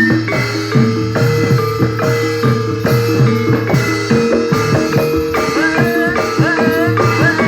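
Gamelan music accompanying a barongan dance: metal-keyed percussion strikes repeated pitched notes in a fast, even rhythm over drums. A higher wavering melody line comes in about five and a half seconds in.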